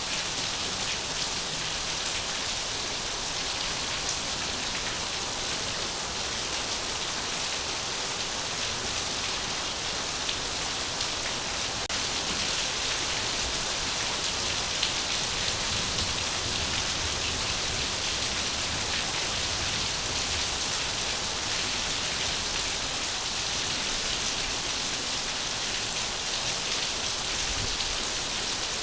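Steady rain falling on a surface: an even, unbroken hiss with faint scattered drop ticks, the same the whole time.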